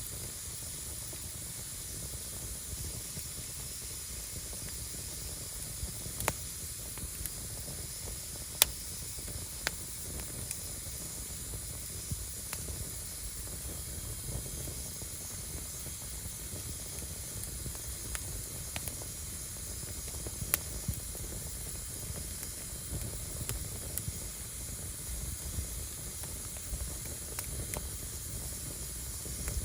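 Firewood burning: a steady hiss of flames with scattered sharp crackles and pops from the wood, the loudest about eight and a half seconds in.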